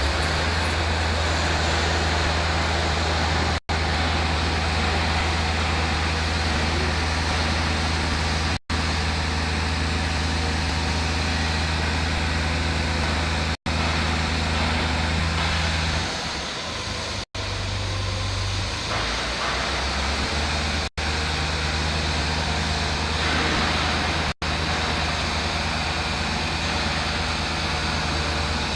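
Diesel engine of a heavy hull-block transporter truck running steadily with a low hum, which shifts in pitch and level about two-thirds of the way through. The sound cuts out completely for an instant several times.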